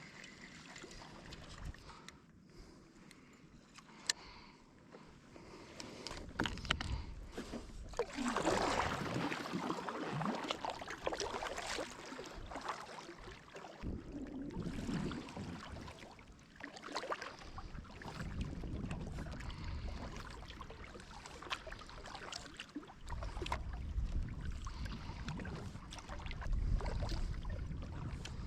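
Water rushing and gurgling around a camera towed underwater behind a kayak, surging unevenly with scattered clicks and knocks.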